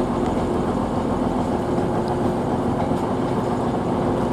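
Trains at station platforms running with a steady engine drone and a steady hum.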